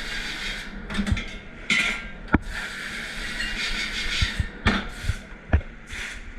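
Dishes and racks clattering in a commercial dish room: scattered sharp knocks, about half a dozen, over a steady rushing hiss of dish-room machinery.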